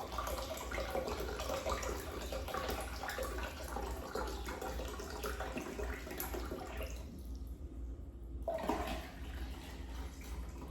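Coconut water being poured into a container of juice, a steady splashing pour that stops about seven seconds in, followed by a short second pour.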